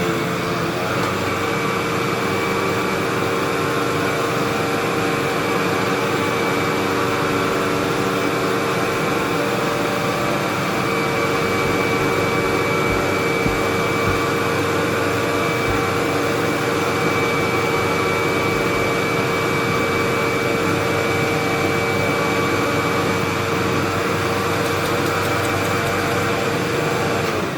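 Hoover WindTunnel bagless upright vacuum cleaner running steadily, a constant motor whine over a rush of air. At the very end the motor winds down, its whine falling in pitch.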